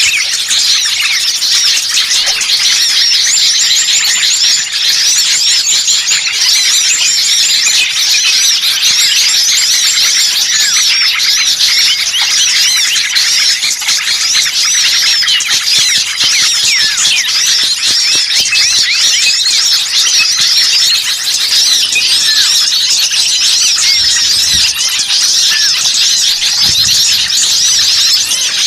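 A dense, noisy chorus of many small songbirds chirping and calling over one another, fast high chirps with no pause. It is a bird-lure recording of a rowdy flock of small birds, played to draw wild birds in.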